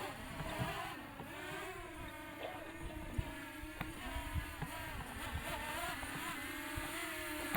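Quadcopter drone's motors and propellers buzzing as it is flown back in, their pitch wavering up and down as it manoeuvres.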